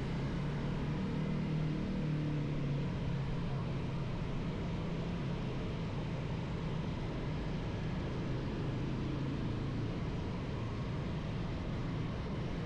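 Motorcycle engine running at low speed in jammed city traffic, a steady low drone under a constant hiss of traffic and road noise.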